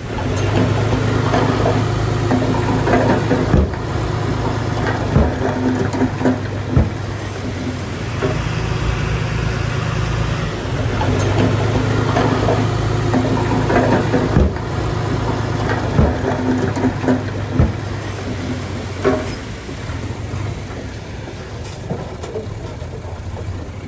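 Heavy diesel engine of earthmoving machinery running, its note swelling and easing with the load, with sharp knocks every few seconds. The engine becomes quieter near the end.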